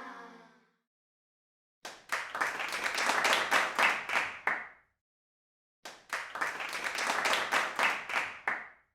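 Hands clapping in two bursts of about three seconds each, with a gap of silence between them; each burst cuts off abruptly.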